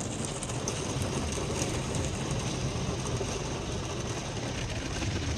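Automatic car wash running around the car, heard from inside the cabin: a steady low rumble under an even hiss, with a few faint clicks.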